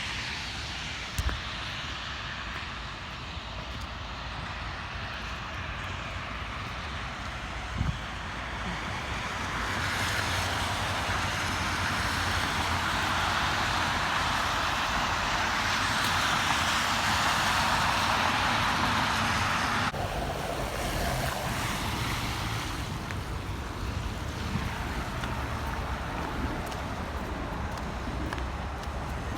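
Outdoor wind and road noise: a steady rushing hiss that swells for about ten seconds in the middle and then drops suddenly, with two brief knocks in the first eight seconds.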